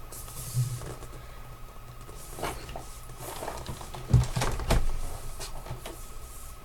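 A cardboard box with a magnetic-closure lid and its packaging being handled: scattered soft taps and knocks, with two louder thumps about four seconds in.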